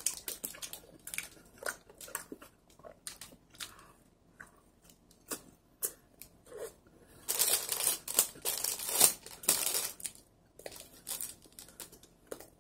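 Close-miked eating of a soft cream bun: chewing and mouth clicks in quick irregular succession, with a few seconds of denser crinkly rustling in the middle.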